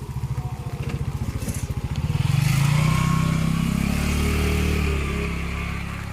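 A motorcycle engine passing close by, its pulsing note swelling to its loudest about two seconds in and fading away near the end, with a hiss of tyres on the wet road as it goes by.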